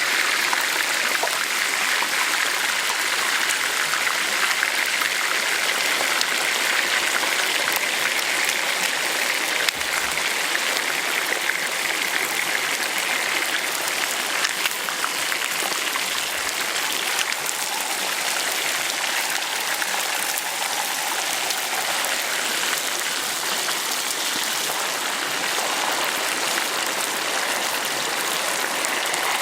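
Hot oil sizzling and crackling steadily around a whole chicken being deep-fried, a dense hiss full of tiny pops.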